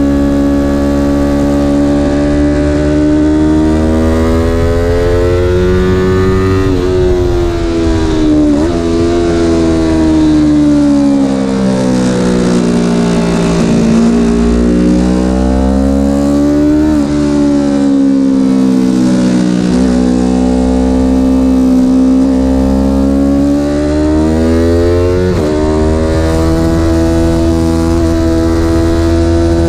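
Car engine heard onboard at speed, its revs sweeping slowly down and back up and jumping suddenly about four times at gear changes, over a steady low rumble of road and wind noise.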